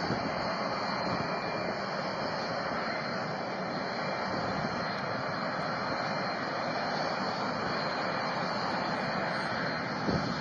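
Aircraft engine noise: a steady, even rush with a faint high whine running through it.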